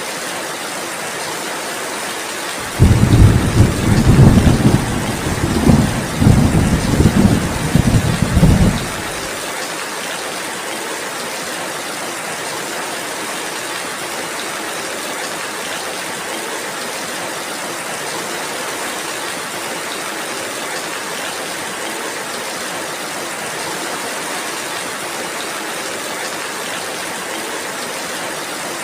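Steady rainfall hissing throughout, with a loud, low roll of thunder that comes in suddenly about three seconds in, rumbles in several surges and stops about nine seconds in.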